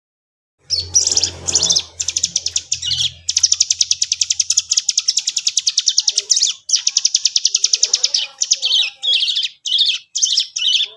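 Cigun (ciblek gunung) songbird singing a very fast, buzzing rolling trill, the 'ngebren' song. It comes in a few long stretches broken by short pauses, with a low steady hum under the first few seconds.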